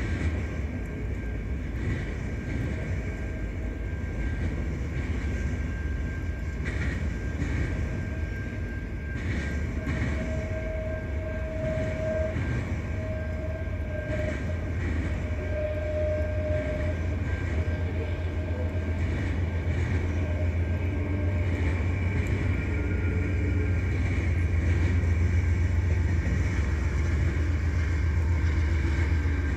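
Freight train of autorack cars rolling steadily past, its wheels rumbling and clicking over the rails, with a faint thin squeal for a few seconds near the middle. It grows a little louder toward the end as a diesel locomotive at the rear of the train passes.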